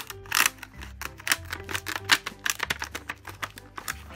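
Scissors snipping through a rigid plastic blister pack: a rapid, irregular run of sharp cuts and plastic crackles. Soft background music plays underneath.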